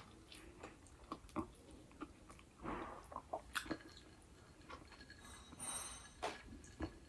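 A person chewing and biting food, with scattered short clicks and a few brief noisy bursts.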